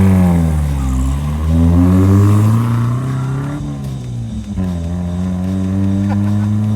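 A car engine revving up and down a couple of times, then holding a steady, slowly climbing note for the last few seconds.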